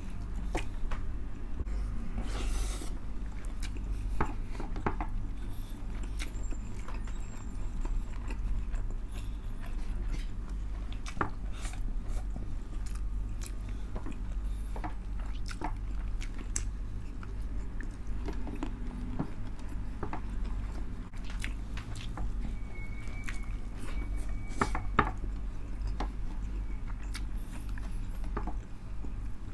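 Close-up chewing of tinumis, a pork blood stew, eaten by hand, with many small wet clicks and lip smacks scattered throughout, over a steady low hum.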